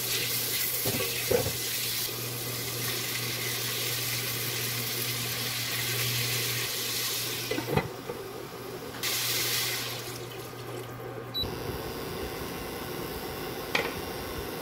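Tomatoes, onion and garlic sizzling in a hot frying pan, with a few knocks of a spatula and a glass lid against the pan. The sizzle dies down in the last few seconds.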